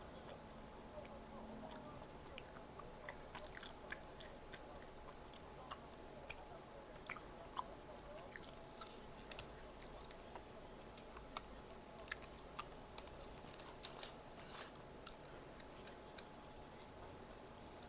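Close-miked chewing and biting of Korean snack food, with many sharp, irregular clicks and crunches; the loudest comes about 15 seconds in.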